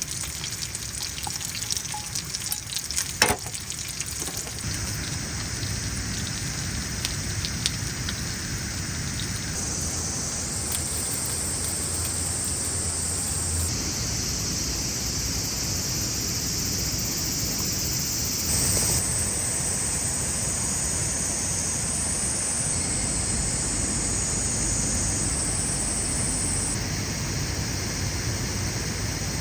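Food frying in a pan: a crackling sizzle for the first few seconds, then a steadier hiss that shifts abruptly a few times.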